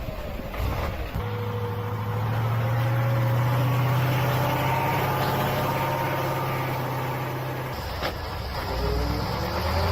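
Heavy truck engines running under load, a steady low drone with a slowly rising and falling whine above it. The sound changes abruptly about a second in and again near eight seconds.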